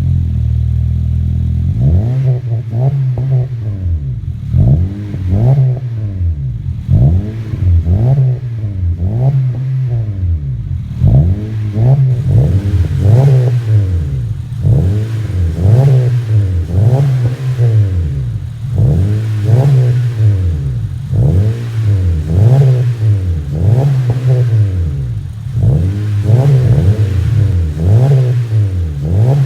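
A 2018 Honda Civic's engine through an aftermarket cat-back exhaust with dual exits. It holds steady for about two seconds, then is revved in quick throttle blips, about one a second, each rising and falling in pitch.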